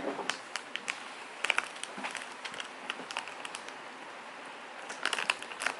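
Scattered light clicks and taps at an irregular pace over a faint steady hiss, with a denser cluster near the end.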